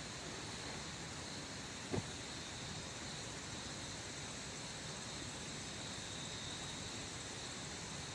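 Steady rain falling, an even hiss, with one sharp tap about two seconds in.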